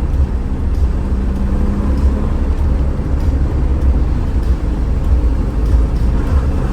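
2015 Porsche 911 Targa's flat-six running through an aftermarket exhaust while driving: a steady low rumble with no revving. The exhaust is in its quieter setting, described as much quieter.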